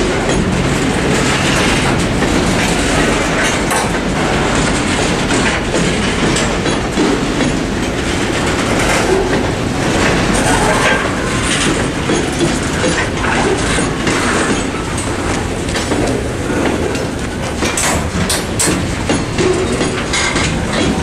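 Freight train of covered hopper cars rolling past: a steady rumble of steel wheels on rail, with frequent irregular clicks and knocks as the wheels cross rail joints.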